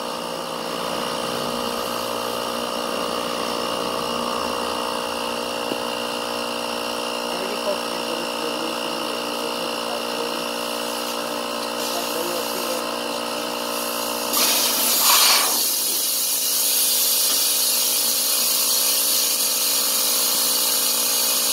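Portable Ryobi cordless tire inflator running steadily with a whining motor. About 14 seconds in, a loud hiss of rushing air starts and keeps going: air escaping from the trailer tire's valve stem as the valve core comes out.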